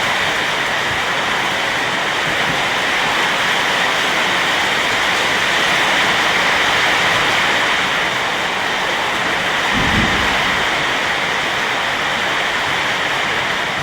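Heavy rain pouring steadily in strong wind, with one short low thump about ten seconds in.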